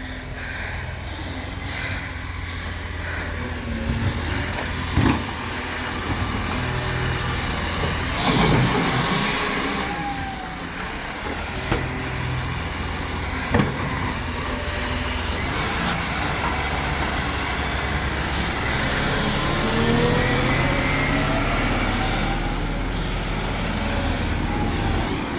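Side-loading rubbish truck with a bin-lifting arm, working: its diesel engine runs steadily, with a rising whine in the last third and several sharp clunks, the loudest about five and thirteen seconds in.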